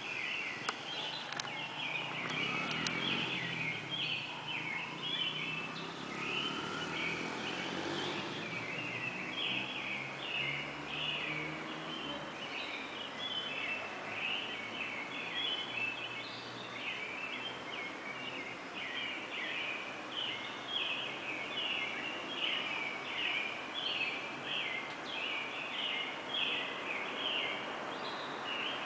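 Pre-dawn bird chorus: many birds chirping in quick, dense, overlapping phrases throughout, with a faint low sound rising and falling in pitch during the first several seconds.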